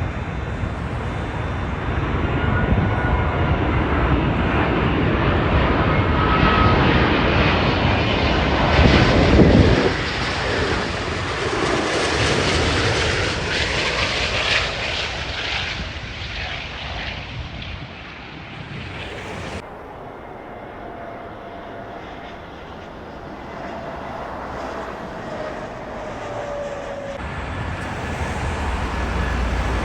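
Jet airliner passing by on its landing approach: the engine noise swells to its loudest about nine to ten seconds in, then fades, with a faint whine that falls in pitch as it moves away.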